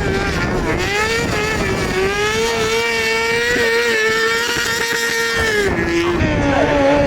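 Motorcycle engine held at high revs, its pitch creeping up slightly, then dropping sharply near the end to a lower steady note.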